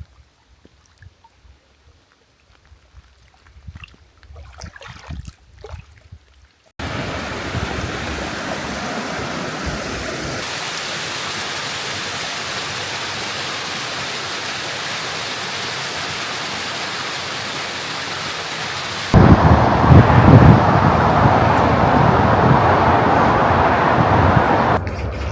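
About seven seconds of faint scattered ticks, then steady rain starts abruptly as an even hiss. From about 19 seconds in it grows louder, with the low rumble of thunder, and eases off just before the end.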